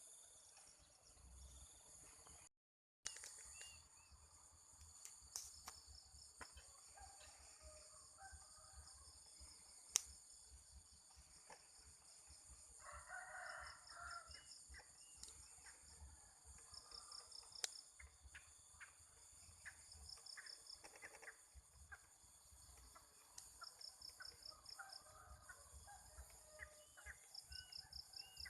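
Faint rural morning ambience: insects chirp in repeated pulsed trains over a steady high insect hum, with scattered small bird calls. A rooster crows once, a little before the middle. The sound drops out completely for about half a second near the start.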